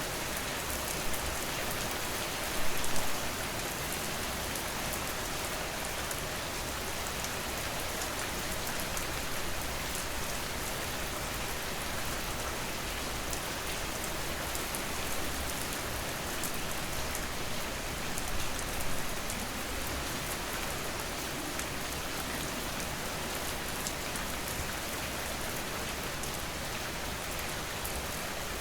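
Steady rain falling, a dense even hiss flecked with the ticks of individual drops. There are a few brief louder spells, one about three seconds in and one about two-thirds of the way through.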